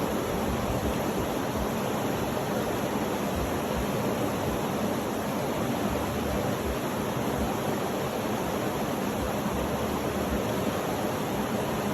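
Steady, unchanging rushing noise with no distinct events, of the kind used as a sleep sound.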